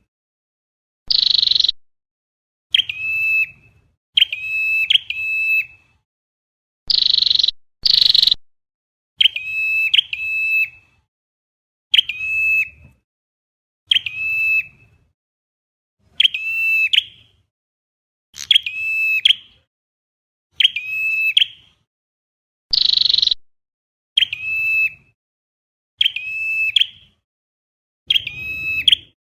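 Flowerpecker calls: short, sharp, high call notes repeating every second or two, some given in quick pairs, with an occasional harsher, buzzier note. The calls repeat identically with clean silence between them, a looped recording of the kind used as a trapping lure.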